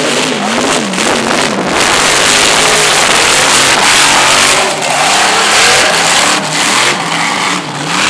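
Supercharged mud truck engine revving hard, its pitch repeatedly rising and falling, over a loud steady rushing noise.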